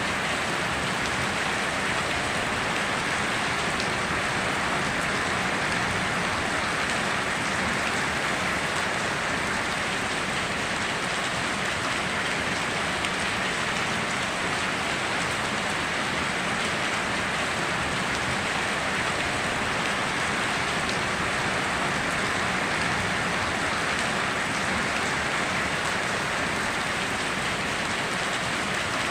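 Steady heavy rain, an even hiss of falling drops on surfaces that holds unchanged, with no thunder.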